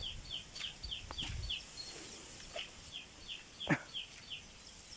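A small bird chirping in a quick series of short, high, falling notes, about three a second, with a brief pause partway through. There is some low rumble in the first second or so and a single sharp falling note near the end.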